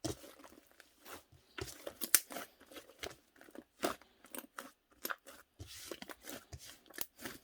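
Fluffy cloud-type clay slime being squeezed and pulled apart by hand, giving irregular crunchy crackles and small pops.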